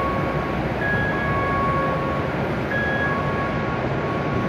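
Steady rushing hum beside a W7 series Shinkansen standing at a station platform. Over it, a two-note electronic tone repeats slowly, the higher and lower notes taking turns, each held about a second.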